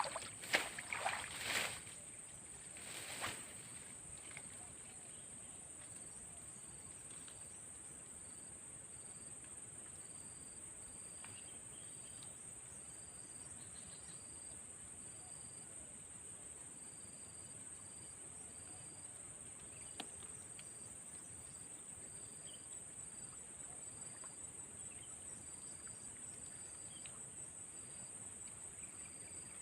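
Steady high-pitched chorus of crickets or other insects in the swamp, with a second insect's short chirps repeating about once a second. A few brief rustling knocks in the first few seconds.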